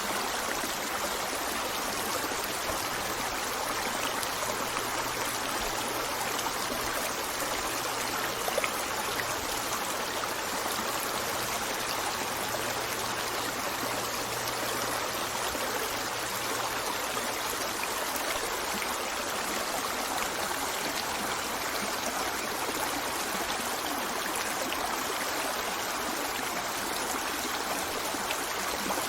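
A stream running steadily over rocks, an even, unbroken water rush.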